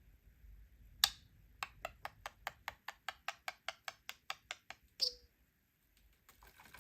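A pet budgie pecking at a hard toy: one sharp click, then a fast, even run of taps at about six a second for some three seconds, ending in a single louder click with a short falling ring.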